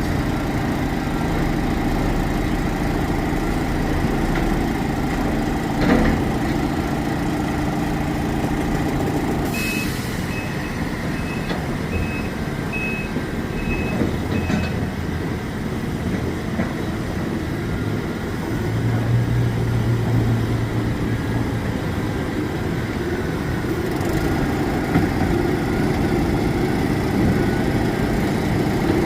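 Heavy diesel dump truck engines running steadily. About ten seconds in there is a short hiss, followed by a reversing alarm beeping about seven times as a truck backs up.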